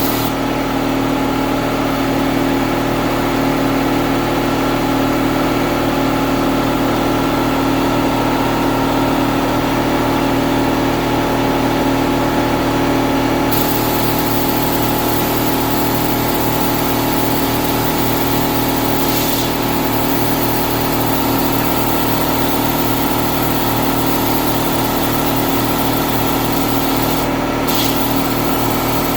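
Air compressor running steadily with a hum. About halfway through, a hiss of blowing air grows louder, and two short air bursts come near the end.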